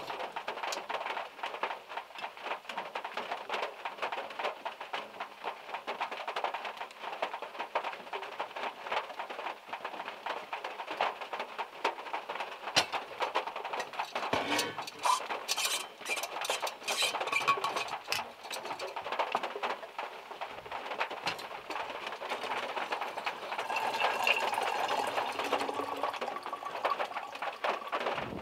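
Rain and larger drops falling from the trees pattering on a small car's roof, heard from inside the car. It is a steady dense patter of small ticks, with a cluster of heavier single drops hitting near the middle.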